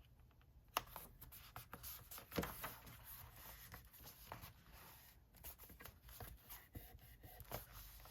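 Faint handling of paper pieces: scattered light taps and rustles, with a sharper tap about a second in and another about two and a half seconds in.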